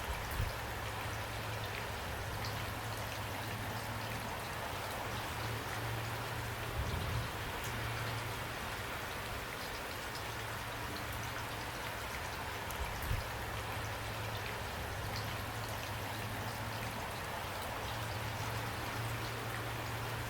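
Steady rain falling, an even dense patter of drops with scattered individual drop ticks. A steady low hum sits underneath, and a few soft low thuds come through now and then.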